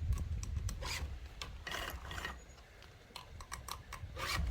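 Chainsaw chain being sharpened with a hand file: a series of short, irregular rasping strokes of metal on metal.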